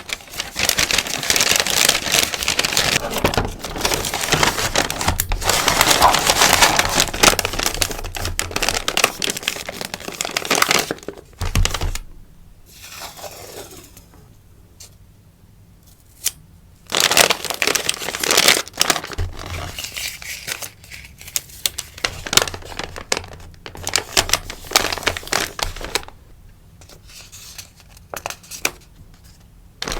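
Rustling and crinkling of sticker packaging handled while packing orders: a dense run for the first ten seconds or so, a quieter few seconds, then another run of rustling.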